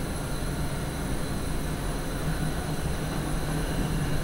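Steady hum and rumble of an NS SGM Sprinter electric multiple unit, heard inside the driver's cab.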